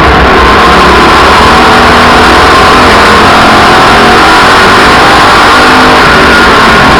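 Race car engines running loud and continuous, overloading the microphone, their pitch wavering slightly.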